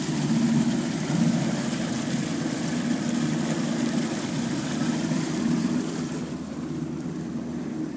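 A boat's motor running steadily under way, with a broad rush of wind and water over it; about six seconds in the rush drops off and it gets a little quieter.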